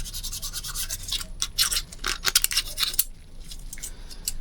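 Fast back-and-forth scrubbing on degreaser-softened carbon deposits on engine parts, about five strokes a second, stopping about three seconds in; the deposits are loosening and coming off easily.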